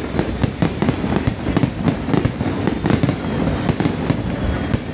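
Aerial fireworks bursting in a dense barrage: sharp bangs and crackles at about four a second, irregularly spaced, over a steady rumble.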